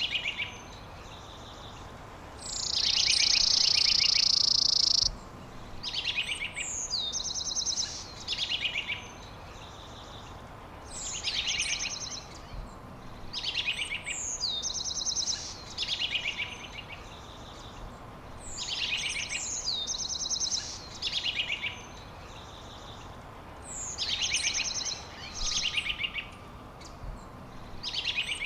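A songbird sings the same short phrase over and over, a quick downward whistle running into a rapid trill, roughly every one to two seconds. Near the start a louder, steady high buzz lasts about two and a half seconds.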